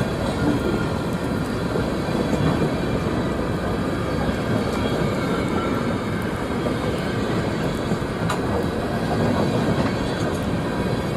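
A train rolling past at trackside, its wheels on the rails making a steady, unbroken noise.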